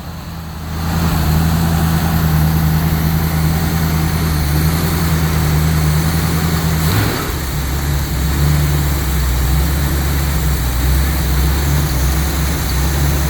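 Car engine idling steadily on its first run after being resealed and fitted with a new water pump and timing chain. The idle dips briefly about seven seconds in and settles a little lower.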